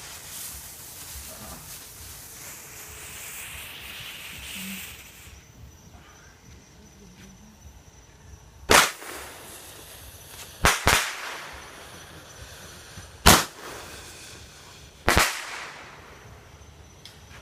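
A firework fuse hisses for about five seconds. Then come five sharp, loud firework bangs at uneven intervals, two of them in quick succession.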